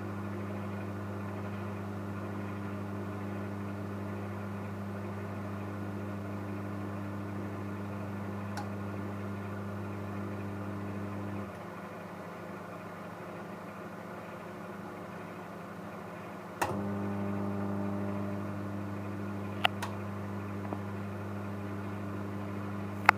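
Microwave oven running with its magnetron transformer humming. About halfway through the hum cuts out, leaving the quieter fan and turntable running, and a few seconds later a relay click brings the loud hum back: the magnetron cycling off and on. A couple of faint clicks follow near the end.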